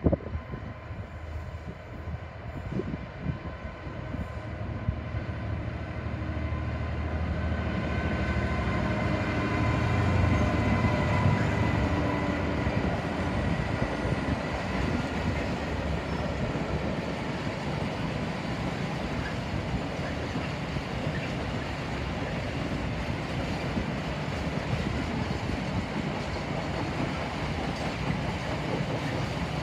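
A freight train passing: the locomotive's engine grows louder and is loudest about ten seconds in, then the freight wagons roll by with a steady rolling noise.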